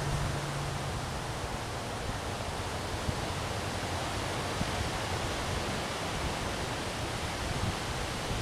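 Windstorm gusting through trees, a steady hiss of tossing leaves.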